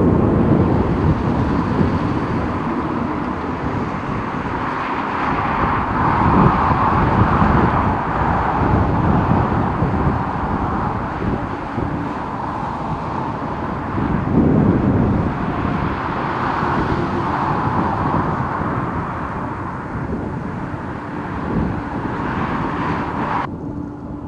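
Boeing 747-400 freighter's four jet engines running at high power, a loud steady rumble with a thin whine. Strong gusty wind buffets the microphone, and the sound changes abruptly near the end.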